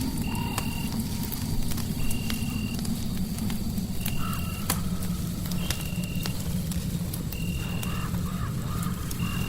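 Crackling fireplace: a steady low rumble of flame with scattered sharp pops and crackles. A short, high chirp repeats about every two seconds over it, with faint wavering tones now and then.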